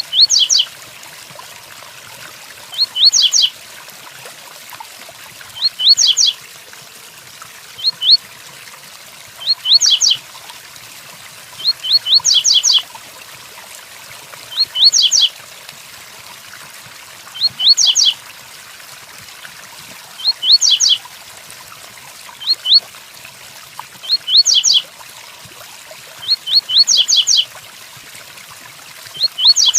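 Coleiro (double-collared seedeater) singing the 'tui-tuí' song: short phrases of a few quick, high whistled notes, repeated about every two to three seconds, over a steady hiss of rain.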